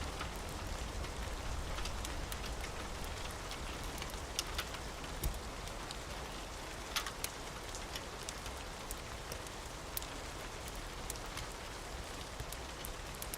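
Steady rain falling, with scattered sharp pops and clicks from a crackling wood fire.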